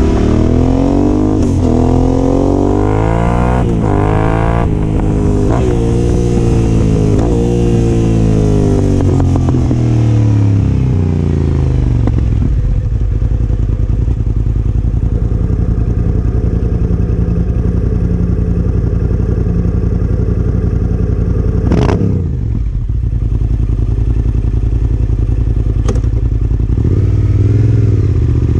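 Yamaha Ténéré 700's parallel-twin engine through a Yoshimura R-12 exhaust, rising and falling in pitch several times as it accelerates through the gears, then holding a steady note at cruising speed.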